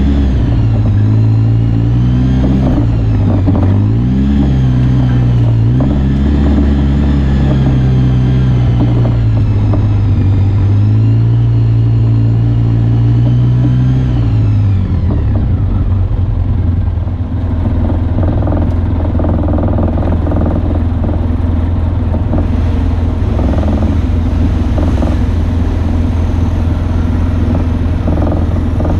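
Off-road vehicle engine driving along, its pitch rising and falling with the throttle for about the first half, then settling to a lower, steadier note with some rattling and knocking.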